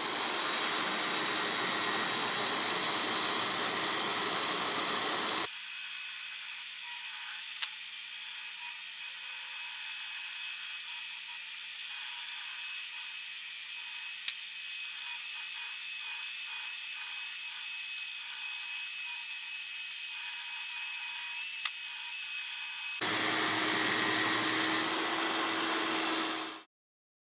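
Power tools running as they cut wood, a steady machine noise with a held whine. It changes abruptly about five seconds in and again near the end, with a few sharp clicks, then cuts off suddenly.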